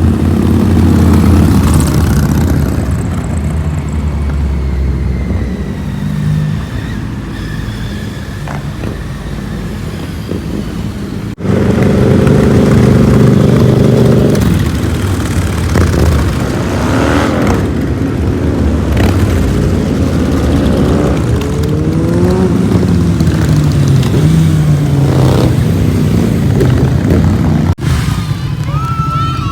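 Motorcycle engines running and revving, their pitch rising and falling several times in the middle. The sound changes abruptly twice, as at cuts between separate clips.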